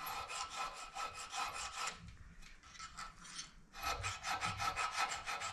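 A hand file rasping back and forth on a piece of steel welding rod that is being shaped into a spur rowel pin. The strokes come quickly and evenly, in two spells with a short pause in the middle.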